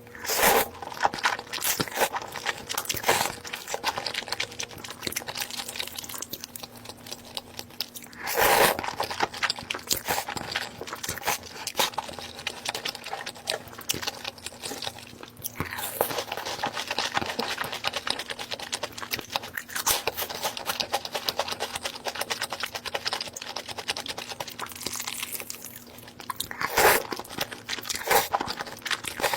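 Close-miked eating sounds: a person chewing and crunching through a spicy Korean soup meal, with a run of small clicks and crackles throughout. Louder bursts come about eight seconds in and again near the end.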